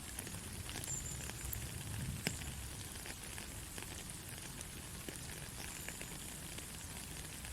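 Soft rain falling steadily, with many separate drops ticking and one louder drop a little over two seconds in.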